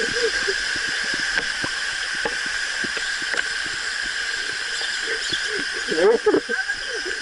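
Steady rushing noise of a waterfall close by, with small splashes. About six seconds in, a person's voice cuts through briefly.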